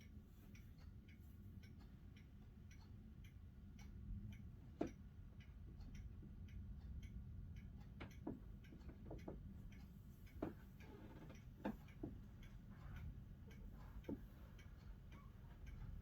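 Faint, fairly regular ticking clicks over a low hum, with a handful of louder sharp clicks.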